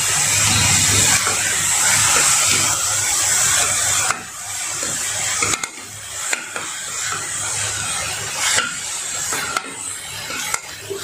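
Chopped onion and ginger-garlic paste sizzling in hot ghee in a non-stick kadhai as a steel slotted spoon stirs and scrapes the pan, with a low hum under it. About four seconds in, the sound drops suddenly, and the rest is a quieter sizzle with clicks of the spoon against the pan.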